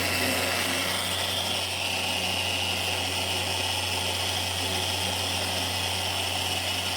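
A power tool running steadily, with a low hum and a high whine that shifts slightly in pitch about two seconds in.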